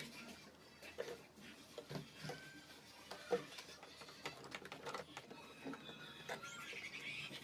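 Faint, irregular light clicks and taps, with a few faint high chirps near the end.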